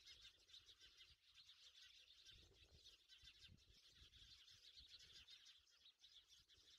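Near silence with faint, continuous chirping of birds in the background, and a few soft low knocks.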